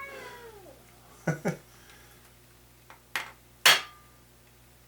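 A cat's meow trails off, then a hammer strikes a steel number stamp to mark a connecting rod cap: two duller taps, then two sharp metallic blows about half a second apart, the second the loudest, with a brief ring.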